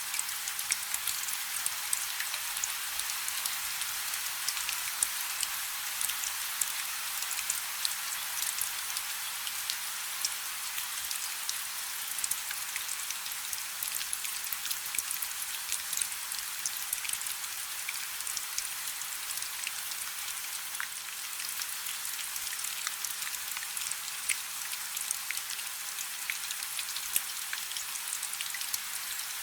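Steady rain falling on a river's surface: an even, high hiss full of countless small, sharp drop impacts, with little low rumble.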